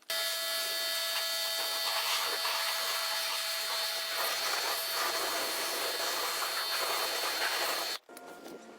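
A machine running with a steady hiss and a held whine. It starts suddenly and cuts off abruptly just before the end.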